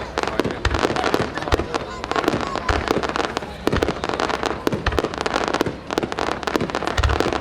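Aerial fireworks display: a dense, rapid crackling and popping of bursting stars, with repeated deep booms of shells exploding.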